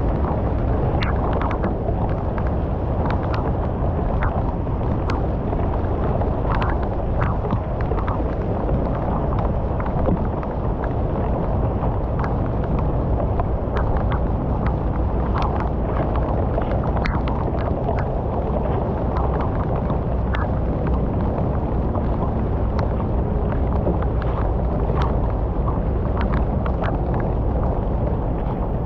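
Heavy water rushing steadily through a culvert, with many small splashes scattered through it.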